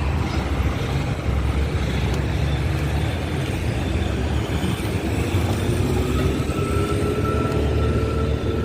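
A vehicle's engine running steadily with a heavy low rumble; in the second half a faint whine rises slowly in pitch.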